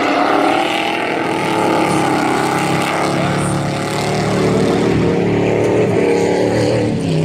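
Several racing pickup trucks' engines running hard on track, their pitch rising and falling as the drivers work the throttle through the turns.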